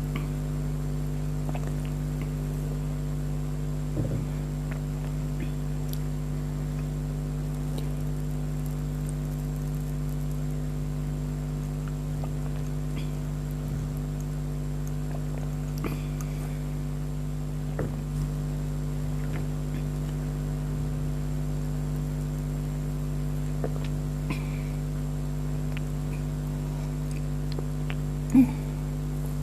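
A steady low hum with several fixed pitches, with a few soft clicks and small sounds scattered through it and one sharper click about a second before the end.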